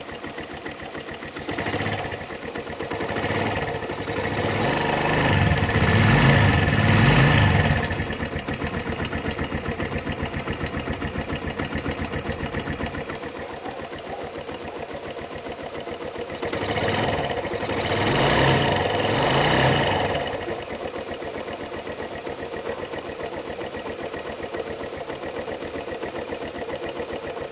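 Suzuki Yes 125 single-cylinder four-stroke motorcycle engine idling with a fast, even ticking, revved up twice and falling back to idle. The ticking is the unexplained engine noise the owner is asking about.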